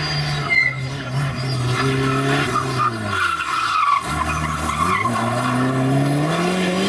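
Rally car's engine coming off the throttle, its note falling to a low point about three to four seconds in, with tyres skidding, then climbing steadily as the car accelerates away.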